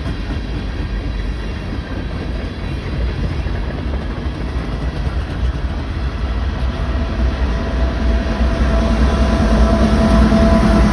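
Train running with a steady low rumble. About six to seven seconds in, a steady tone comes in and grows louder.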